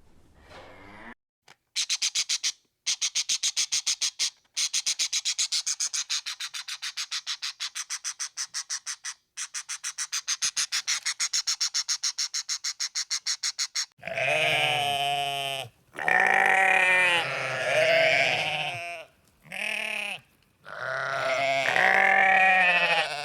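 A fast, even rattling tick for about twelve seconds, then about four loud, wavering bleats from farm livestock in the second half.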